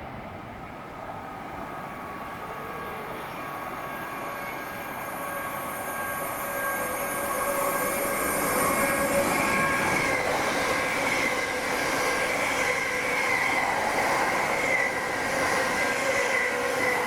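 Train approaching and running through the station, growing louder over the first eight seconds or so and then running on steadily, with a high wavering tone from about nine seconds in.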